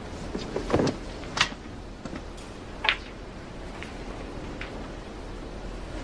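A few short, sharp clicks: one about a second in, another half a second later and a third near three seconds, over a steady low hum.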